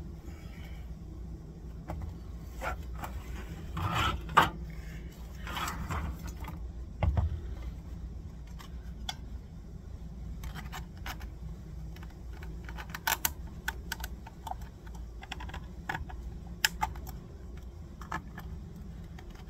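Irregular light clicks, clinks and short scrapes of a cut strip being bent and worked into a motorbike rear wheel hub, with a few sharper knocks, over a steady low hum.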